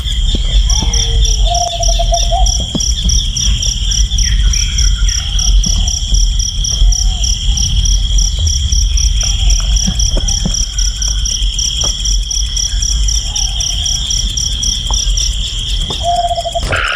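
Insects, crickets or similar, chirring steadily in a shrill, rapidly pulsing chorus over a low rumble. Short low calls, likely from a bird, come every few seconds. The whole soundscape cuts off abruptly just before the end.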